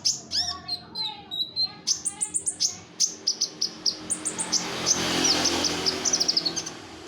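Songbird singing a fast, varied song of sharp high chirps, short whistled glides and rapid trills, with a run of quick repeated notes near the end.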